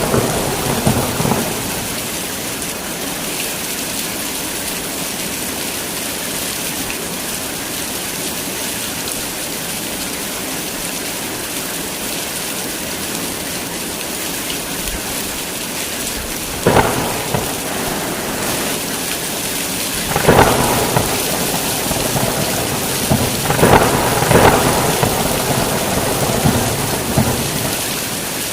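Heavy rain falling steadily, with thunder: a rumble dying away at the start, then short sharp claps of thunder about 17 and 20 seconds in and two more close together around 24 seconds.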